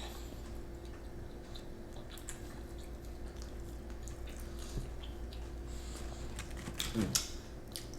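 Faint chewing and soft mouth clicks of someone eating spicy chicken nuggets, with a short voice sound about seven seconds in.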